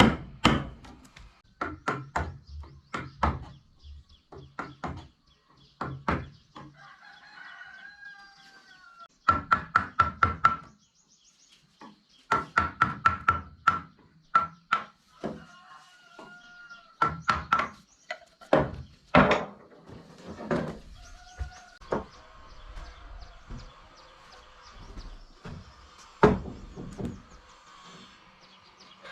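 Runs of quick hammer blows on wood, several a second, each with a short ringing note. Chickens cluck in the pauses between the runs.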